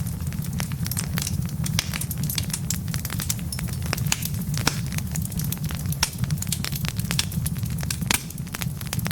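Wood fire in a fireplace crackling and popping: many sharp, irregular pops several times a second over a low, steady rumble of the flames.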